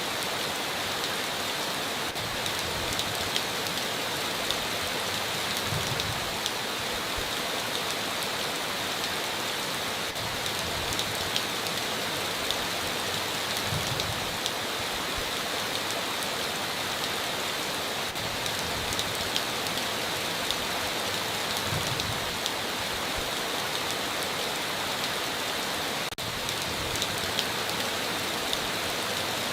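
Heavy rain falling steadily, a dense hiss with many small drop ticks, broken by a momentary dropout near the end.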